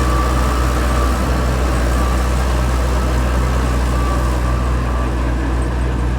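Heavy earthmoving machine's diesel engine running steadily with a deep, even hum.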